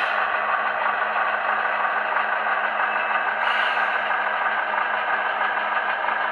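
Engine sound from an HO scale model locomotive's DCC sound decoder, running steadily as the locomotive moves slowly. Short bursts of air hiss come at the start and again about three and a half seconds in.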